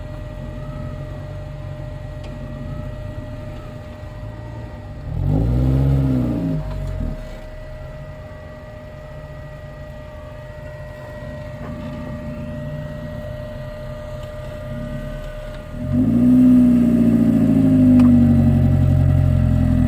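Suzuki four-wheel drive's engine running at a low idle, revved twice: a short rise and fall about five seconds in and a longer, louder burst of revving near the end.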